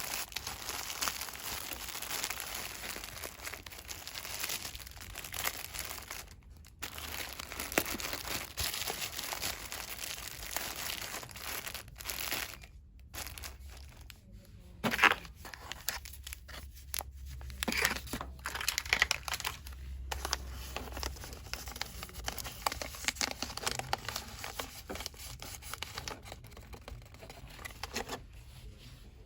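Crinkling and rustling of cosmetics packaging handled by hand in quick, dense bursts, with a few short pauses and some sharper crackles.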